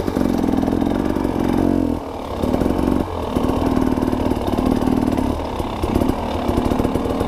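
Dirt bike engine running at low to middling revs, the throttle opened and eased off several times, with a brief drop in level about two seconds in.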